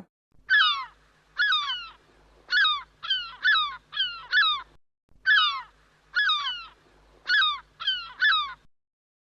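A bird giving about a dozen short calls, each falling in pitch, in two quick bouts with a brief pause between them.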